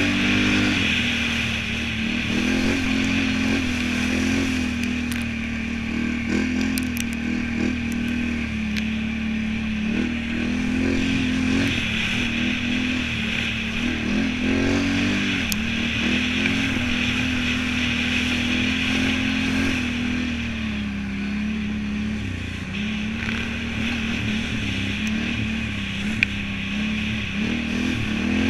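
Can-Am Renegade 1000 ATV's V-twin engine running continuously under changing throttle, its pitch rising and falling as the quad is ridden.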